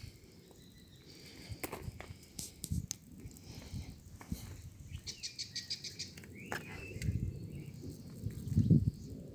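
Birds chirping, with a quick run of chirps about halfway through, over an uneven low rumble on the microphone; a louder low thump comes near the end.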